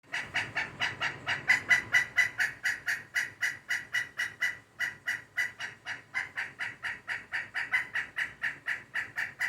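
Woodpecker calling a long, even series of short, sharp notes, about four a second.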